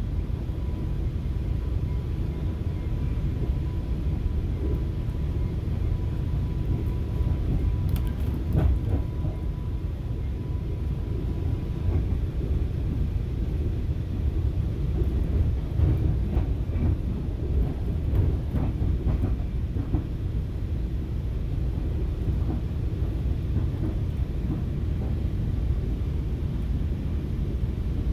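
Ride noise inside a moving FrontRunner commuter train coach: a steady low rumble of wheels on rails. A faint high whine stops a little under halfway through, and a few light clicks and rattles come through the middle.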